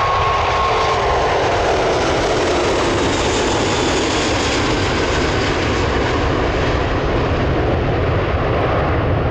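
Jet airliner passing close by, its engines making a loud, steady rushing roar over a deep rumble, with a whine that falls in pitch during the first few seconds.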